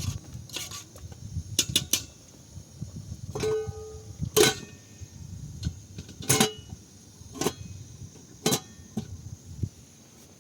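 A run of about ten sharp knocks and clinks at irregular intervals, a few of them ringing briefly with a clear tone, over a low rumble that fades near the end.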